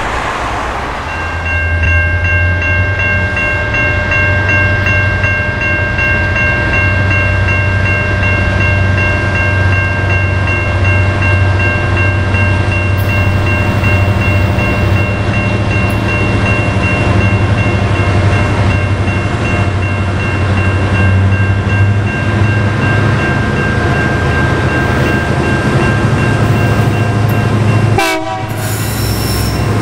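Diesel-hauled freight train approaching, led by SCT006 with C501 and CLF2, EMD-built locomotives: a steady low engine drone with three steady high tones over it. The sound drops out briefly near the end and a short rising squeal follows.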